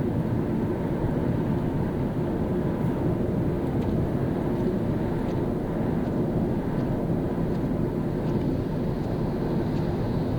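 A car driving at a steady speed on a rain-wet road: a steady low rumble of tyres and engine, with a few faint light ticks above it.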